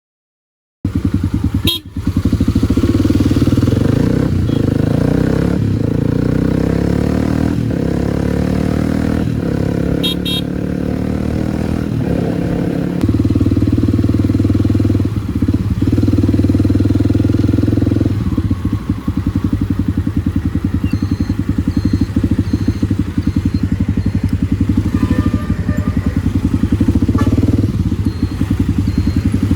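Kawasaki D-Tracker 250's single-cylinder four-stroke engine running under way through an aftermarket White Brothers exhaust, with the engine note changing as the bike changes speed. It starts just under a second in.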